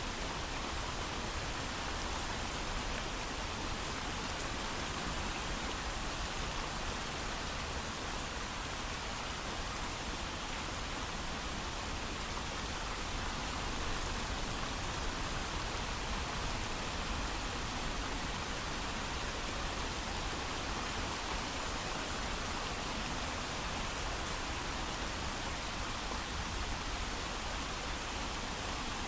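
Steady heavy rain falling without thunder, an even dense hiss with no separate drops standing out.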